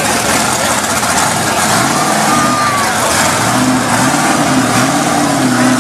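A loud truck engine revving up and down, its pitch rising and falling from about two seconds in, over a steady wash of loud engine and crowd noise.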